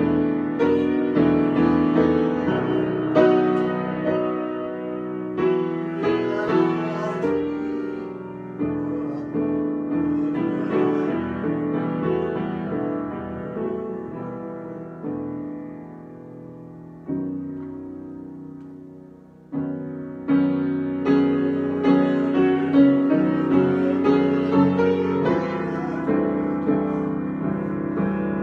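Solo piano improvisation: struck notes and chords that ring and decay. The playing thins out and softens about two-thirds of the way through, then comes back in loudly with fuller chords.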